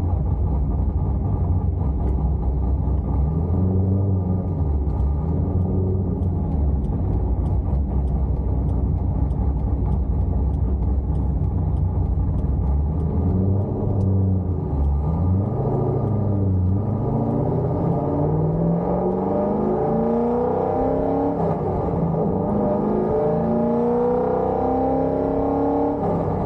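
Cammed Corvette C5 Z06 LS6 V8 with headers and Borla ATAK mufflers, its exhaust giving a loud, deep rumble. From about two-thirds of the way through, the engine note climbs several times in a row as the car accelerates.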